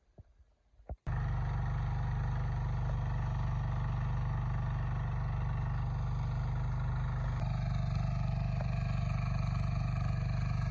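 Tractor engine running steadily with a deep, even drone, cutting in abruptly about a second in after near quiet.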